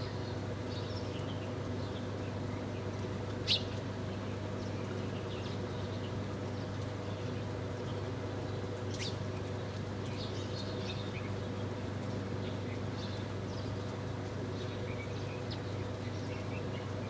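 Small birds chirping in short, scattered notes over a steady low hum, with one sharp, louder note about three and a half seconds in.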